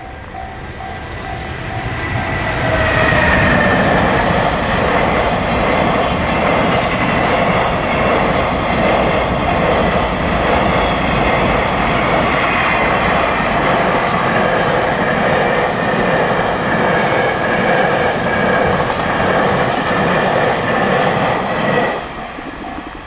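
High-speed freight train passing close by: the rumble and clickety-clack of its wheels swells about two seconds in, stays loud as the long string of wagons runs past, then drops off sharply near the end as the last wagon clears. A repeating beeping tone is heard at the very start before the train drowns it out.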